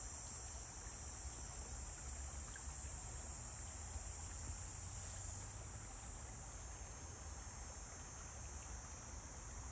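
A high-pitched insect chorus trilling steadily, a little quieter from about five and a half seconds in, over a faint low rumble.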